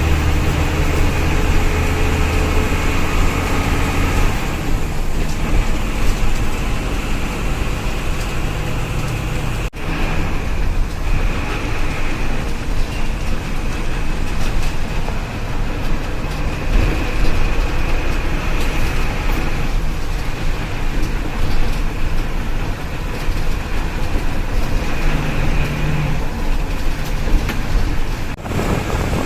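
Tata bus running on the road, its engine hum with steady road and tyre noise; the low engine drone is strong at first and drops back about four seconds in.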